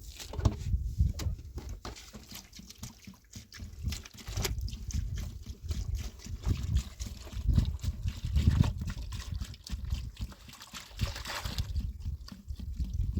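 Water trickling and sloshing, with scattered knocks and clatter and a steady low rumble.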